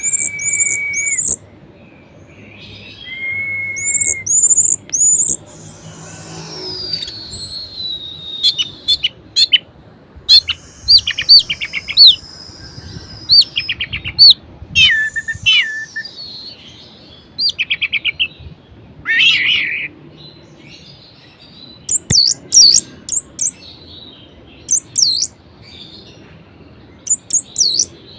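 Orange-headed thrush in full, varied song: high whistled notes, long sweeping slurs and rapid trilled phrases, delivered in bursts with short pauses between them.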